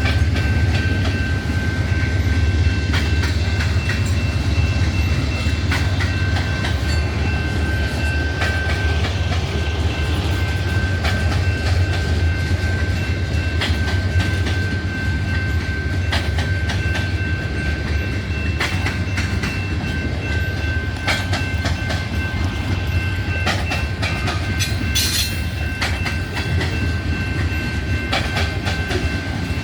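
Freight train of hopper cars rolling past: a steady low rumble with irregular clacks of wheels over the rails, and a thin, steady high-pitched ring from the wheels.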